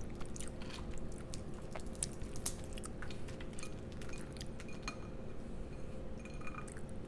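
Close-miked eating: chewing and biting with scattered small wet clicks and crackles from food and mouth. A steady low hum runs underneath.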